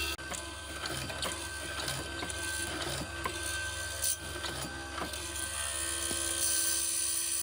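Workshop machinery running with a steady low hum and irregular clicks and knocks.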